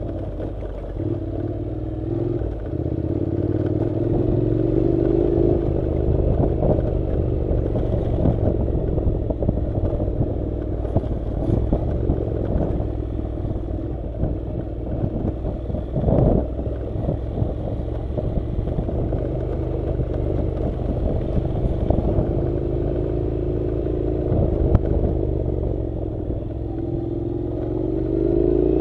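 Honda NC700's 670 cc parallel-twin engine running as the motorcycle rides a rough dirt road, its pitch rising and falling with the throttle. Clatter and knocks from the bike over the uneven surface run throughout, with one sharp knock about sixteen seconds in.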